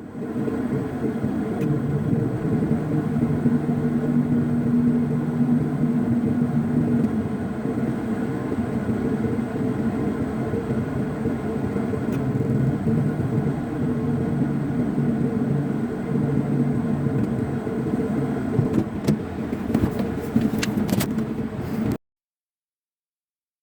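A vehicle on the move: a steady engine hum with road noise, the pitch shifting a little now and then. It cuts off suddenly near the end.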